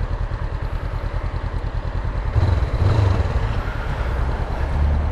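Motorcycle engine running, a steady low pulsing that grows louder and rougher about two and a half seconds in.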